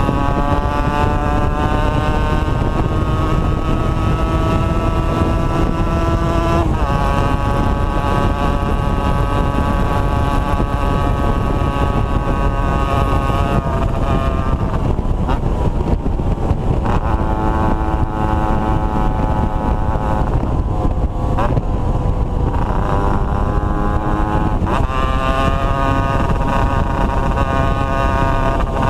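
Two-stroke motorcycle engine running under way, its pitch holding fairly level and then changing abruptly a few times, over a heavy low rumble of wind.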